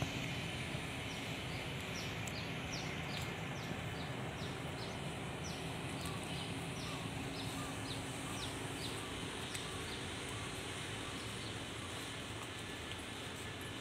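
A bird calling in a quick run of short, high, falling chirps for most of the first ten seconds, over a steady outdoor background hiss with a low hum.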